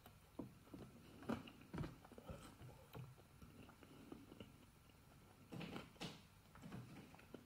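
Faint chewing of soft oven-baked fries, with scattered soft clicks and taps of a metal fork picking up food.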